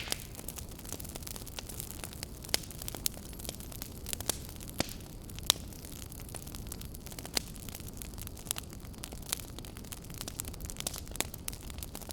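Fire burning in a fireplace, crackling: irregular sharp pops and snaps over a steady low rumble of flame.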